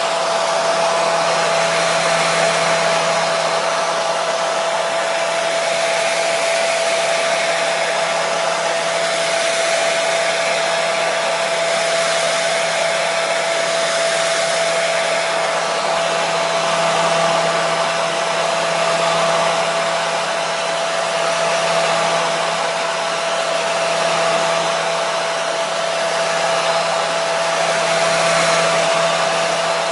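Hair dryer running steadily: a constant rush of blown air with a steady mid-pitched whine from the motor and fan.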